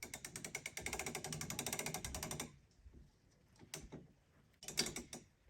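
A mechanical ratchet clicking rapidly for about two and a half seconds, then a few separate clicks near the end.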